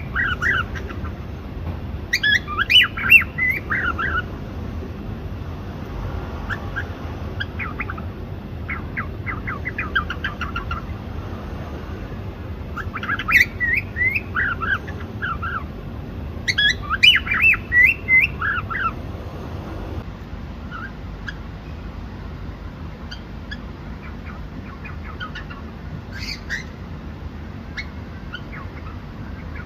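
Cockatiel chirping in bursts of quick, rapid notes with pauses between them, the calls thinning to a few scattered chirps after about twenty seconds, over a steady low background hum.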